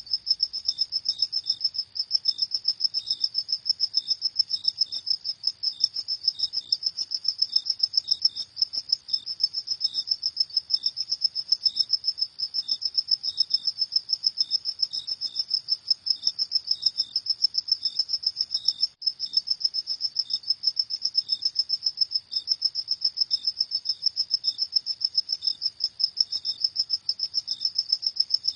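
Crickets chirping: a continuous, rapid, high-pitched pulsing trill, with a second, lower-pitched series of chirps coming more sparsely underneath.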